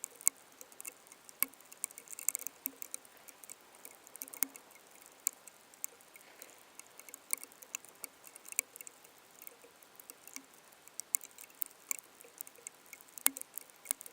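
Rain pattering: irregular sharp ticks of drops landing on a hard surface, several a second, over a faint hiss.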